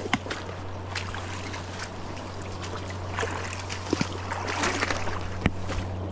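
River water running and splashing, with scattered small clicks and knocks over a steady low hum.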